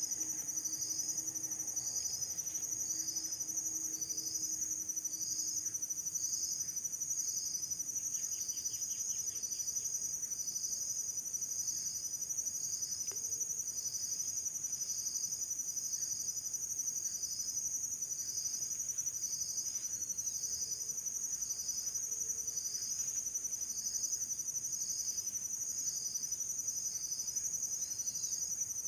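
Insect chorus: a steady high-pitched shrill drone with a chirp repeating evenly, a little more than once a second.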